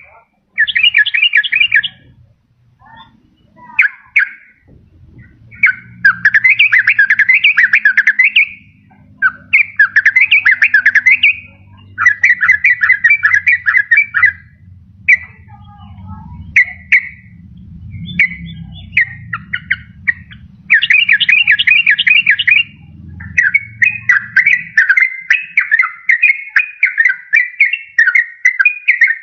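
Yellow-vented bulbul singing: repeated phrases of quick, bubbling notes, each lasting a second or two, separated by short pauses, with the last phrase running on longer. A faint low hum lies underneath through the middle.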